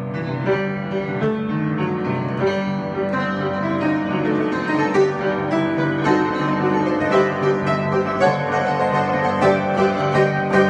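Improvised keyboard playing: held low notes under a busy line of struck notes, which come faster and more sharply accented toward the end.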